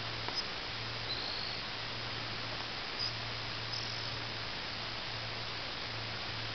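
Steady background hiss with a faint low hum, and a few brief, faint high chirps of a small bird about half a second, one second, three seconds and nearly four seconds in.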